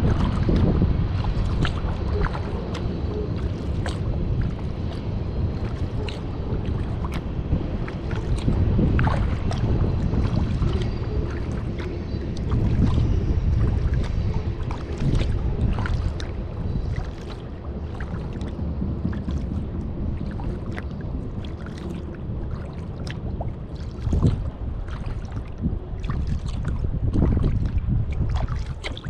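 Kayak paddle strokes: the blades dipping into the lake and dripping water in a string of small splashes, over a steady low rumble of wind on the microphone.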